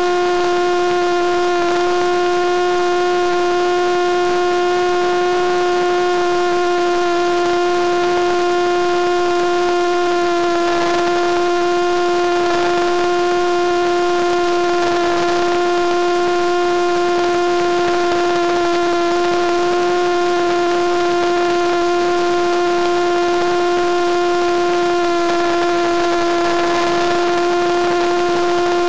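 Electric motor and propeller of a Penguin FPV model plane running at a steady throttle: a loud, steady whine that holds one pitch, with slight dips about a third of the way in and again near the end, over a hiss of airflow.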